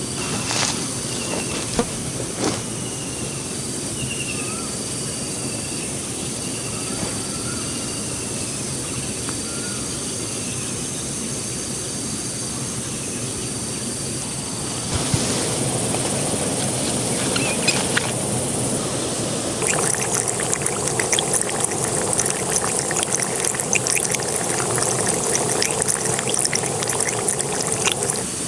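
Steady rushing water with short high chirps repeating about once a second. About halfway through the sound suddenly gets louder, and in the last third dense crackling sets in.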